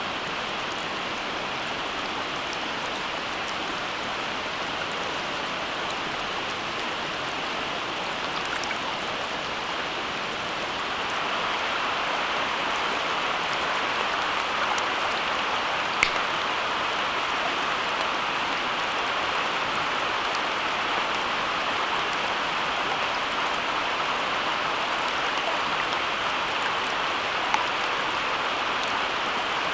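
Steady rain, a constant hiss with a few sharper drop ticks, growing slightly heavier about eleven seconds in.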